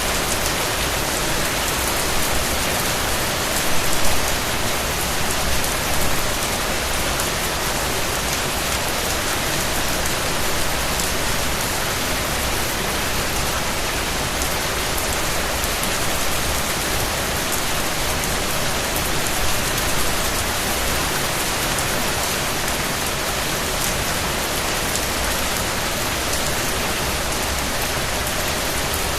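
Steady rain falling on a surface, an even dense hiss with individual drops pattering through it and a few slightly louder gusts of drops about four and six seconds in.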